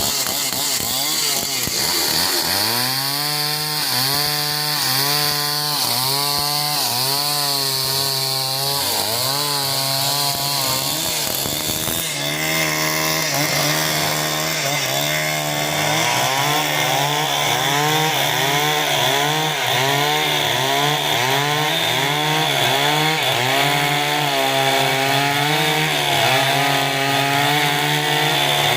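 Two-stroke chainsaw cutting through timber, its engine pitch dipping and recovering about once a second as the chain bites and is worked through the wood. The sound breaks off abruptly about twelve seconds in, then carries on the same way.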